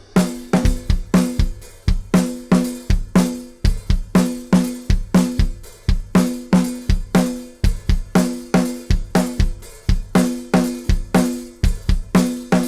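Kick and snare drum played in a steady groove, with the snare's ringing tone after each hit. They are recorded through the Quagliardi 501+ preamp with its input gain raised and output attenuated, which adds distortion to the transients.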